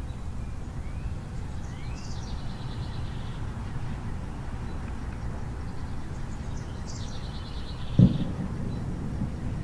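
Steady low outdoor rumble with a bird singing twice, each song a short rising note followed by a quick trill. About eight seconds in comes a single low thump, the loudest sound.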